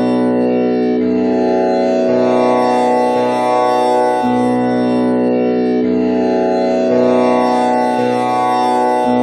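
Tanpura drone in B, tuned with komal Ni: its strings are plucked one after another in a repeating cycle, a fresh pluck about once a second, over a continuous buzzing hum.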